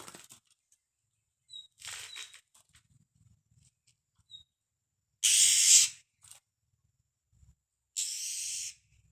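Murai songbird giving harsh, hissing scold calls: a loud rasp about halfway through and a shorter, thinner one near the end, with a few faint high peeps before them.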